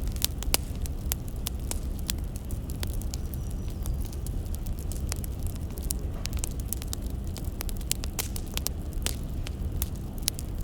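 Burning firewood crackling, with frequent irregular sharp pops over a steady low rumble.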